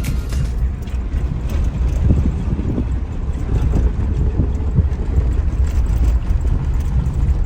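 Wind buffeting the microphone: a low rumble with uneven gusts.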